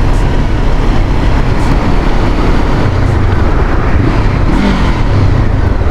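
Honda CBR500R's parallel-twin engine running as the bike is ridden, mixed with loud, steady wind rush on the helmet-mounted microphone.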